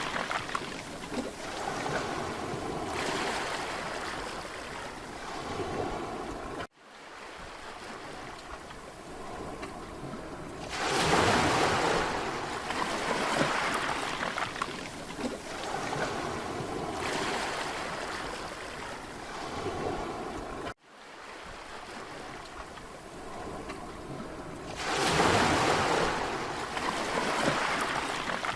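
Sea waves washing onto a beach, swelling and ebbing, with the biggest waves breaking about eleven and twenty-five seconds in. The sound cuts out abruptly twice, about seven and twenty-one seconds in, and comes straight back.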